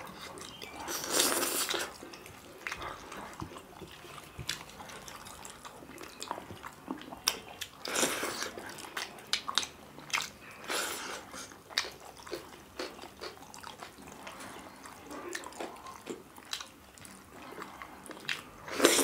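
Two people eating kodo millet dhido and chicken curry by hand, close-miked: chewing and biting with irregular small clicks and mouth sounds. A few louder bursts come about a second in, near eight seconds and near eleven.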